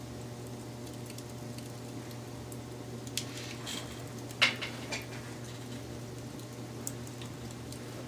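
Wood fire crackling, with scattered small pops and a louder cluster of sharp snaps about four and a half seconds in, over a steady low hum.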